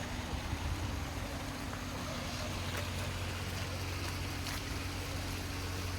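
An engine running steadily with an even low hum, over a faint wash of background noise.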